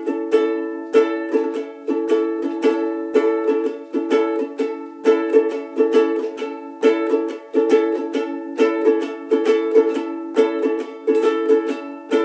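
Chords strummed on an acoustic string instrument in a steady, repeating down-and-up strumming pattern, with no singing.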